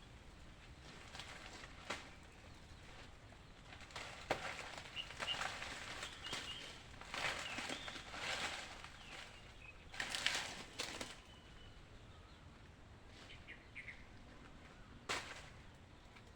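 Faint irregular rustling and scuffing noises, with a few brief high bird chirps.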